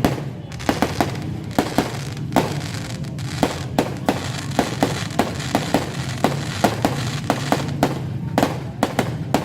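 Fireworks going off in a rapid, irregular run of sharp bangs, about two or three a second, over a steady background din.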